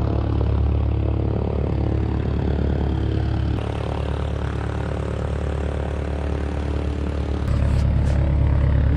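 Light propeller aircraft engine running steadily at low power, a deep even hum that picks up a little about seven and a half seconds in.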